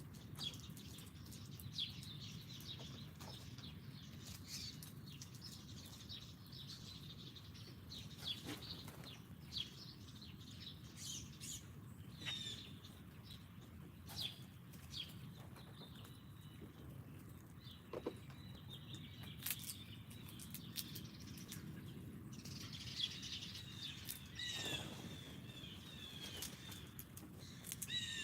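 Small songbirds at a backyard feeder chirping and calling on and off, with a quicker run of chirps near the end and a few sharp clicks between the calls, over a low steady background hum.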